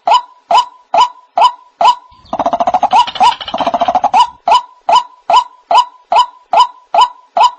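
White-breasted waterhen calling: a steady series of loud single notes, a little over two a second. About two seconds in, a couple of seconds of rapid, harsh stuttering croaks breaks the series, and then the even notes resume.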